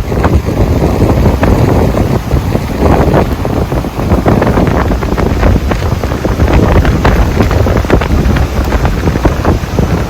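Strong gusting wind buffeting the microphone: a loud, uneven rumble with frequent short bursts.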